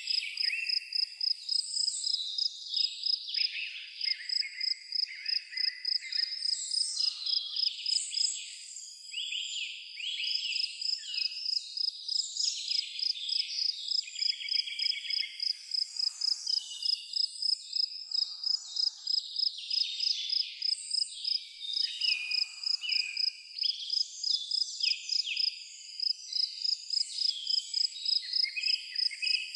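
A cricket chirping in a steady, even rhythm, with several songbirds singing over it in quick, varied phrases.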